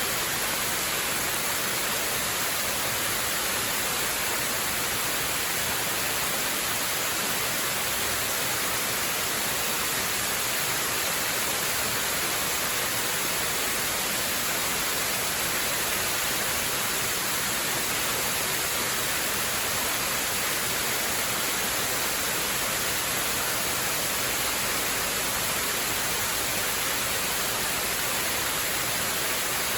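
Waterfall rushing: a steady, even hiss of falling water, weighted toward the high end, with no change or break.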